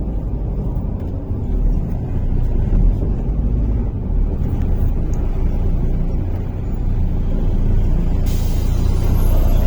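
Low, steady rumble of a MAZ-103 city bus heard from inside the passenger cabin. About eight seconds in, a hiss of compressed air starts and continues.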